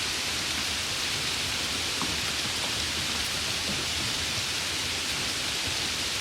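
Steady rain: an even, unbroken hiss, with a few individual drops ticking now and then.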